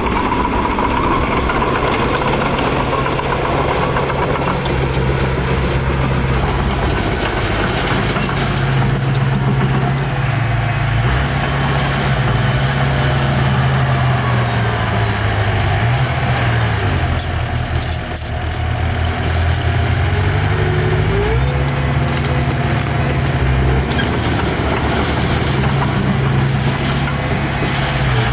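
Heavy diesel engine of earthmoving machinery running steadily under load, its speed dipping and climbing back about two-thirds of the way through.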